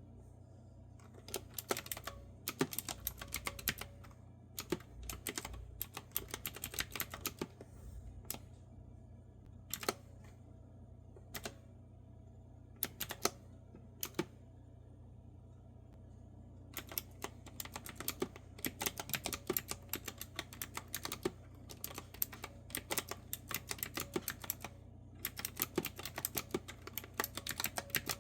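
Typing on a clicky retro-style keyboard with round keys: sharp keystroke clicks in quick runs, broken by pauses. There is a long sparse stretch in the middle with only a few single keystrokes before steady typing resumes, over a faint steady low hum.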